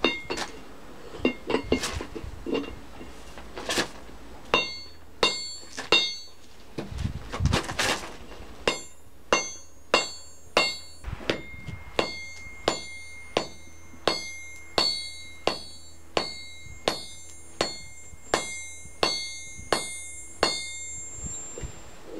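Hammer blows on a piece of steel from a car tow hook being forged on a small anvil, with a few irregular knocks first, then a steady run of about three strikes every two seconds, each leaving a bright metallic ring. The ringing stops near the end.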